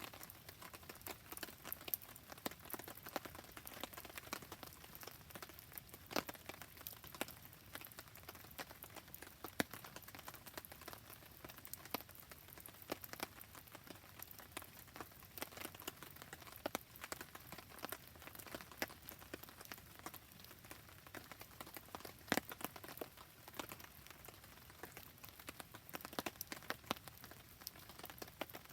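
Steady rain falling, scattered with many sharp ticks and pops, mixed with a crackling wood campfire. A few pops stand out louder than the rest.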